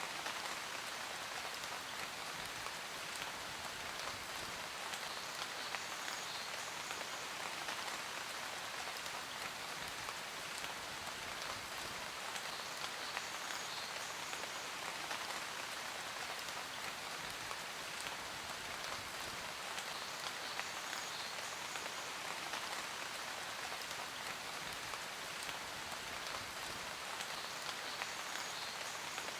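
Steady rain falling, an even hiss with countless small drop ticks on a surface.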